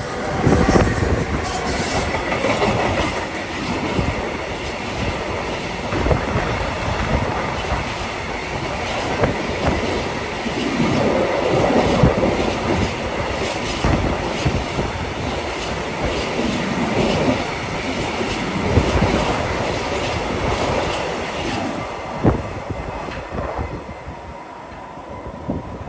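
A train passing on the line, the clickety-clack of its wheels over the rail joints running on for over twenty seconds before dying away near the end.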